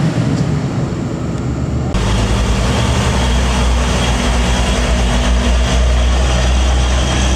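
Heavy truck diesel engine running steadily. About two seconds in the sound changes abruptly and a deeper, heavier rumble takes over.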